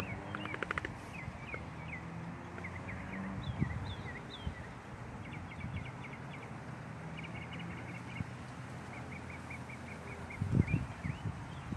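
Small birds chirping outdoors: short rising and falling chirps and quick runs of repeated notes, over a low steady background rumble. A brief run of clicks comes at the start, and a loud low rumble like wind on the microphone comes about ten and a half seconds in.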